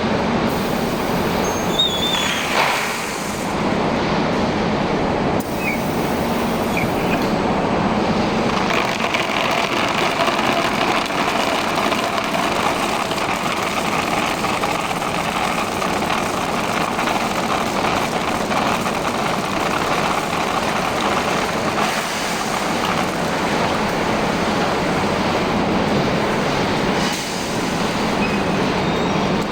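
Chemical coating machine running with a steady, dense mechanical noise, with a few short high squeaks in the first seven seconds.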